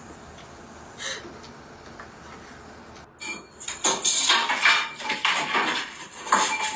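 Low hiss, then from about four seconds a loud, rapid clattering and clinking of hard objects.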